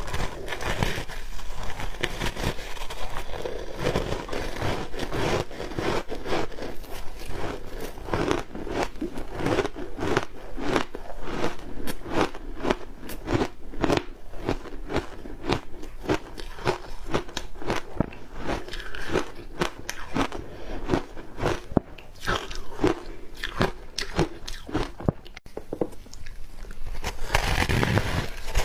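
Ice dusted with matcha powder being bitten and chewed close to the microphone: rapid, continuous crunching as the hard ice cracks between the teeth.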